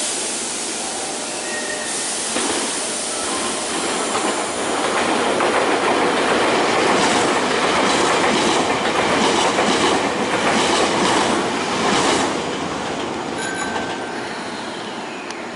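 Electric commuter train running along the platform, steel wheels clattering over the rail joints in a run of clacks as the noise builds to a peak and then eases off.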